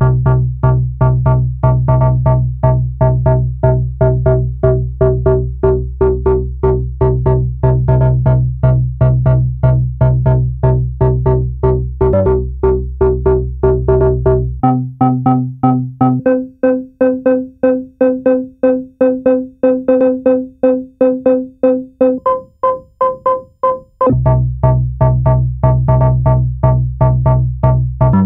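Malekko Manther analog monosynth playing a repeating sequenced bassline of short notes, about four a second. About halfway through, the deep low end drops out and the notes jump up in register, climbing higher again for a couple of seconds. The deep bass returns near the end.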